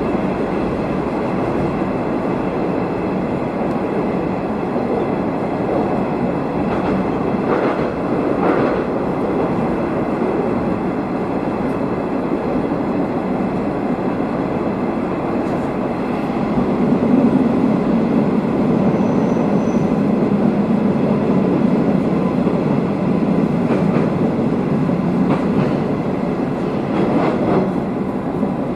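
Nishikigawa Railway diesel railcar running along the line, heard from on board: a steady rumble of engine and wheels with a few clicks as the wheels cross rail joints. The rumble grows louder and deeper a little past halfway.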